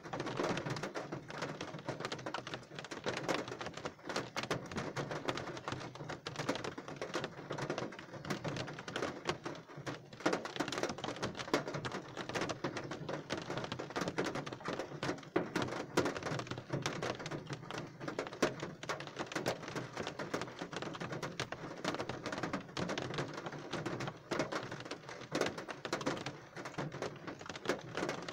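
Steady rain, a dense stream of separate drops striking close by.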